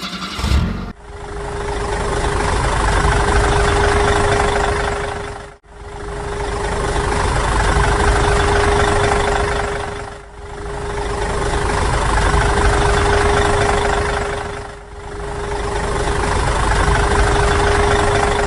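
Small electric motor and gearbox of a homemade miniature tractor running steadily with a high whine. It comes in four stretches of a few seconds, each swelling and then dipping.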